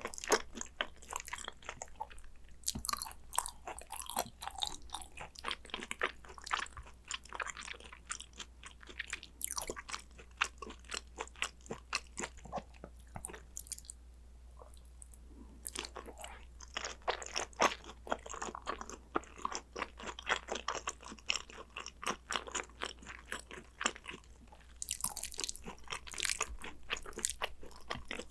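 Close-miked eating of hanwoo yukhoe (Korean raw beef tartare): quick, wet chewing and crunching mouth sounds in steady runs, easing off twice in brief quieter stretches.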